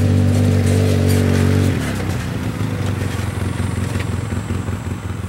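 ATV engine running steadily, then the throttle drops about two seconds in and it settles to a lower, rougher idle.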